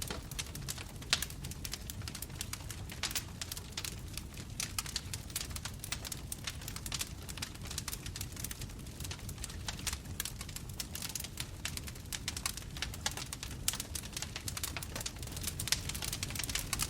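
Bonfire burning, with a dense run of sharp crackles and pops over the low rumble of the flames.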